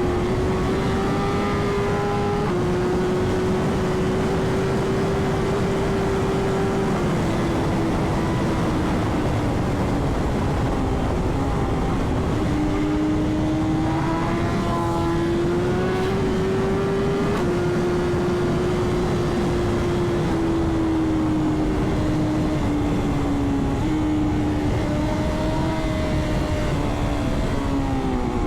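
Superbike engine running at road speed under a dense low rush of wind noise. Its pitch holds steady for stretches, then steps and slides up and down several times with throttle and gear changes.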